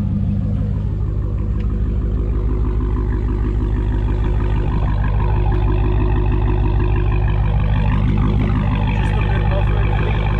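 Dodge Challenger SRT Hellcat's supercharged 6.2-litre Hemi V8 idling through a mid-muffler-delete exhaust: a deep, steady rumble with no rattle, running a little louder from about halfway.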